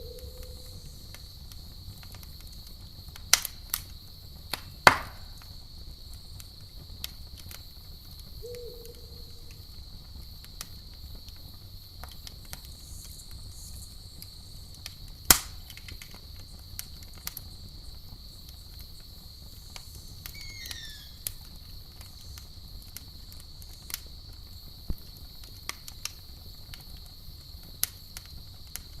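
Wood campfire crackling with a low steady rumble and occasional sharp pops, the loudest at the very end, over a steady high chirring of crickets. An owl hoots briefly twice, at the start and about eight seconds in.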